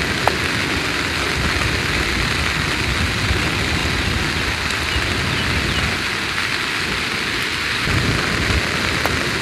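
Heavy rain falling, a steady hiss without a break.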